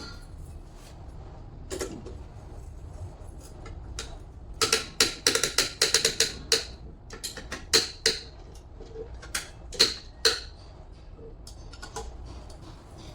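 Metal-on-metal taps and clinks from tools and alternator parts being handled: a quick run of sharp clicks about five seconds in, then a few single strikes with a short metallic ring.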